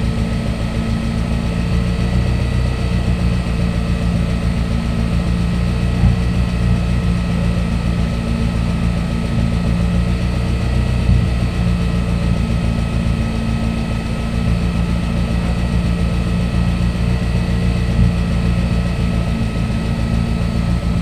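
Car engine idling steadily, with a few brief light knocks.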